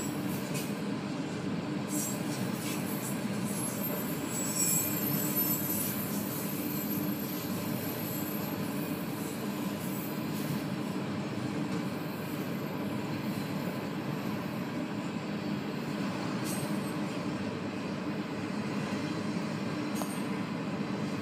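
Freight train of autorack cars rolling past a grade crossing: a steady rumble of steel wheels on rail, heard from inside a car. A thin, high wheel squeal rises about four to six seconds in, and a few sharp clicks come through.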